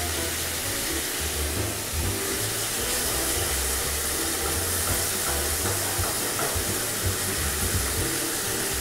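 Rabbit pieces sizzling in hot oil as they brown in a frying pan: a steady hiss. A metal spoon stirs and turns them a few seconds in.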